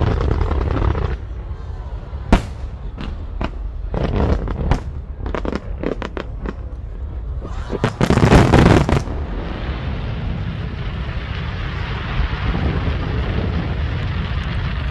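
Fireworks going off: a single sharp bang about two seconds in, then a run of scattered cracking reports, and a loud, dense crackling burst about eight seconds in. A steady wash of outdoor noise follows.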